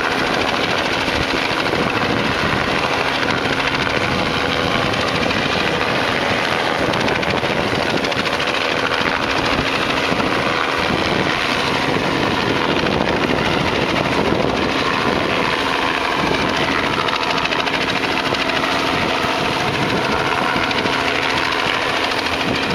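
Helicopter running with a steady, loud rotor and engine noise that holds even throughout.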